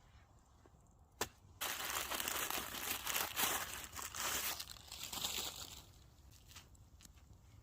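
Something crinkly being crumpled and handled: a dense crinkling rustle lasting about four seconds, after a single sharp click about a second in.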